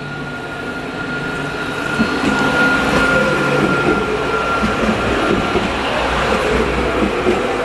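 A train running past at close range, growing louder over the first two seconds and then staying loud, with a steady high whine over the rumble.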